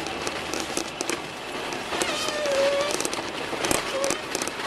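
Jeep ploughing through deep snow: a steady crunching, crackling noise of tyres churning snow, with many small ticks and a short squeak a little after two seconds in.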